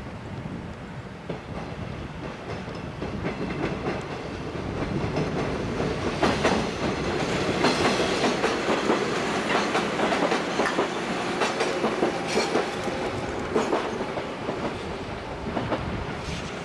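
Train passing on the rails, wheels clacking rhythmically over the rail joints. It builds up over the first few seconds, is loudest through the middle, and eases off near the end.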